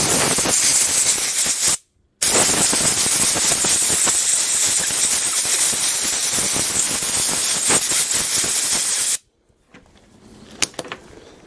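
Compressed air hissing out in a strong jet, blowing out around the lawn mower's spark plug: a blast of about two seconds, a brief break, then a longer blast of about seven seconds that cuts off suddenly.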